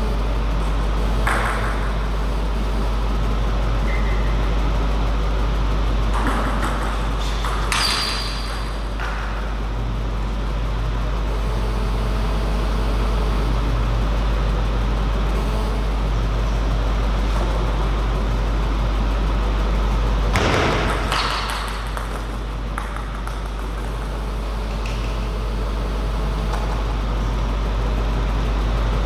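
Steady low hum of a table tennis hall, with a few scattered knocks and clicks from play, most of them between about 6 and 9 seconds in and again around 20 to 23 seconds in.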